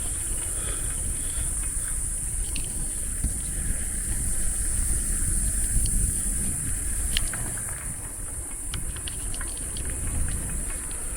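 Low wind rumble on the microphone while riding a bicycle, under a steady high-pitched drone of forest insects, with scattered light clicks and rattles.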